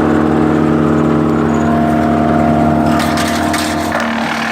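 Woodland Mills WC88 wood chipper's gas engine running steadily while a small oak stem feeds through slowly, with a burst of crackling and snapping about three seconds in as wood is chipped.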